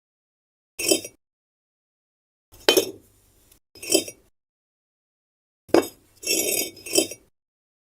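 Small hard pieces clinking against each other in six short, separate knocks, the first about a second in and the last near the end, each with a brief bright ring.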